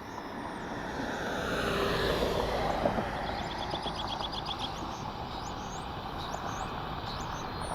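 Jet airliner engine noise: a wide, even rush that swells over the first two seconds and then holds steady.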